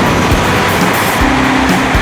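A high-speed Shinkansen bullet train passing, a loud steady rush with regular light clacks, under background music.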